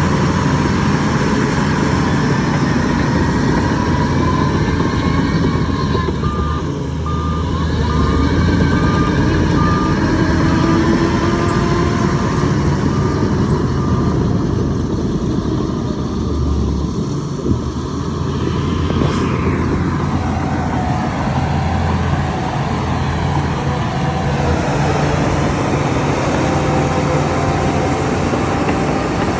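Heavy diesel machinery running steadily under load. A reversing alarm beeps at an even pace for about seven seconds, starting about seven seconds in.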